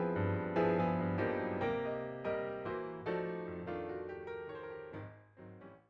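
Background piano music, notes struck one after another and decaying, fading away to silence at the end.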